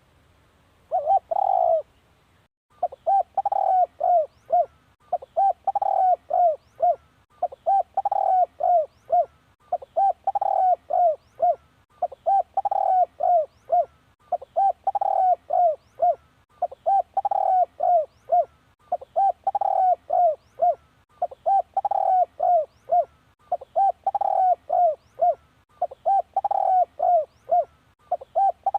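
Spotted dove (นกเขาใหญ่) decoy calling: a male's cooing song of several short coo notes per phrase, repeated at an even pace about every two seconds, as used to lure wild spotted doves.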